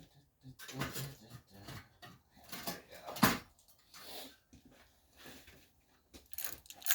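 Small metal engine parts clinking and knocking as they are handled and fitted during assembly of a Briggs & Stratton 6B-SF engine, with one sharp metallic click about three seconds in.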